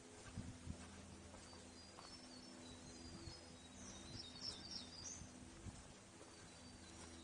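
Faint high twittering and chirps of forest birds, busiest about four to five seconds in, over a steady low hum. Soft footsteps thud on the trail.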